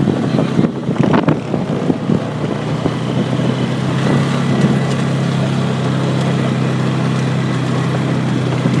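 ATV engine running at a steady speed, heard from a phone mounted on the machine's front, with a few knocks and rattles from rough ground in the first second or so.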